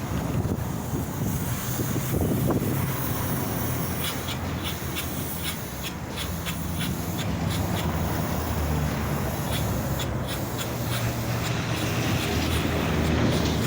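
Polyurea spray rig running: a steady low hum from the K5000 machine under a broad spraying hiss, with scattered light clicks.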